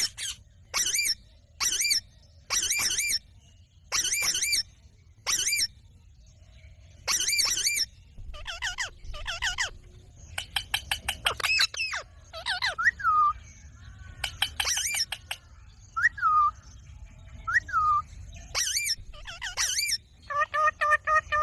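Ringneck parakeets calling: short harsh screeches about once a second at first, then quicker chattering mixed with short gliding whistled notes, and a held call near the end.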